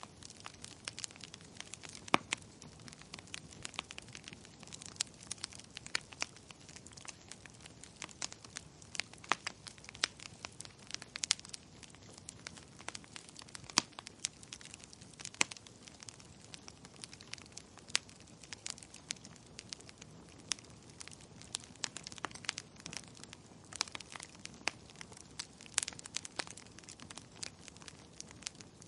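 Burning firewood crackling: irregular sharp pops and snaps, a few of them loud, over a soft steady hiss of the fire.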